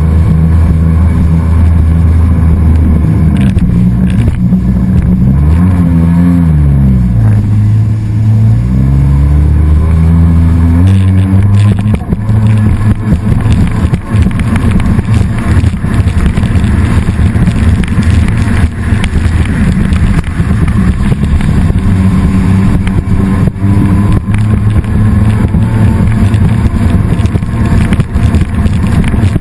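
An engine running steadily, its pitch dipping and then rising again about six to eight seconds in. From about eleven seconds in the sound turns rough and choppy, with fast buffeting.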